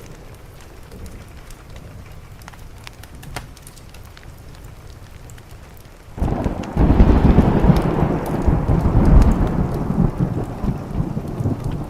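Steady rain with a faint hiss; about six seconds in, a thunderclap breaks in suddenly and a loud rumble of thunder rolls for several seconds, slowly fading.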